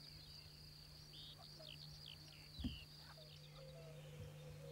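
Faint wetland ambience: a few short bird chirps over a thin, steady high-pitched note, with a low steady hum underneath. One soft thump comes about two and a half seconds in.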